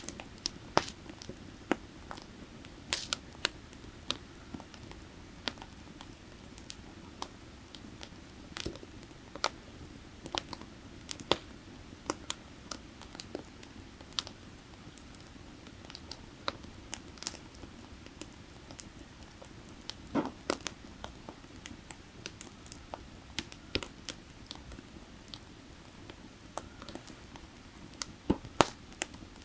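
Firewood burning, with irregular sharp crackles and pops, a few louder ones, over the steady low rush of creek water.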